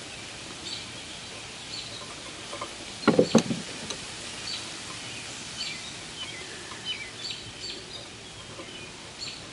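Birds chirping, short scattered chirps over a steady faint background hiss, with a brief clatter of metal being handled about three seconds in as small screws are put back into a part.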